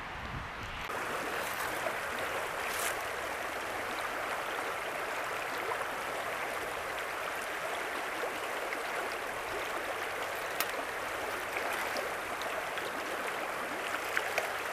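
Steady rushing of river water flowing past, growing louder about a second in.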